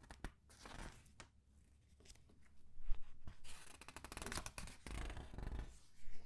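Comic book pages being turned and squeezed by hand, with rustling and crinkling paper and several page turns in a row marked by sharp clicks.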